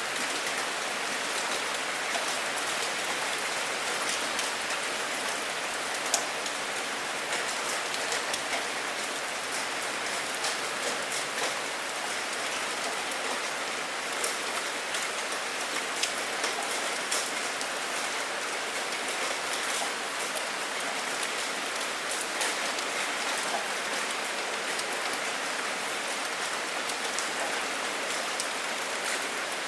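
Steady rain falling, an even hiss with individual drops ticking sharply here and there; no thunder is heard.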